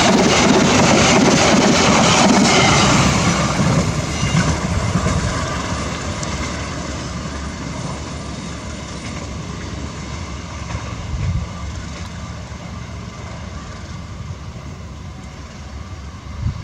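Train running past, its rumble and wheel noise loud for the first few seconds and then fading steadily as it moves away. A brief thump near the end.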